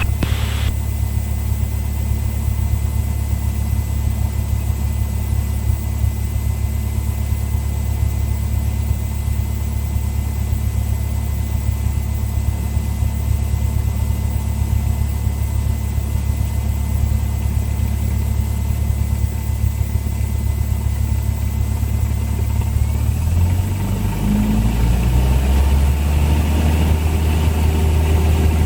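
Cessna 172's four-cylinder piston engine running steadily at low power. About 23 seconds in, the engine note rises and grows louder as power is brought up for the takeoff.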